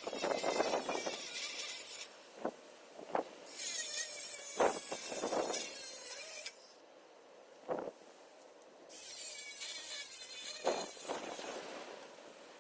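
Cordless angle grinder cutting through metal, running in three bursts of a few seconds each with short pauses between them, with a few light metal knocks in the pauses.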